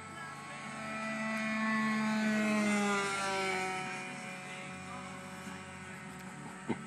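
Radio-controlled model airplane flying past: its motor's buzz swells to its loudest about two to three seconds in, then drops in pitch and fades as the plane moves away. A single sharp click near the end.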